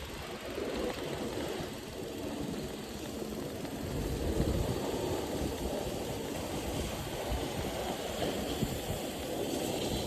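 Motorcycle engine running steadily, with fluttering low rumble on the microphone; slightly louder from about four seconds in.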